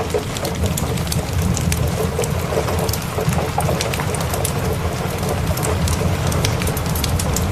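Steady rain, with the irregular pops and crackles of a wood fire and a continuous low rumble underneath.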